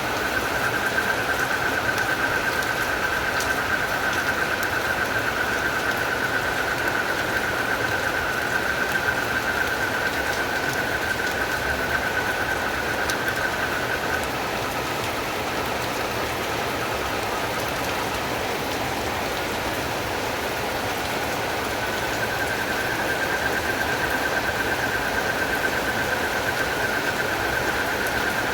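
Steady rain with a continuous high-pitched trill from a calling night animal over it. The trill stops about halfway through and starts again about two-thirds of the way in.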